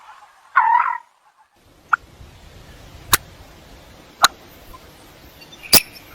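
Common coot calling: one short call about half a second in. Then, over a faint steady hiss, four very short, sharp calls come a second or more apart.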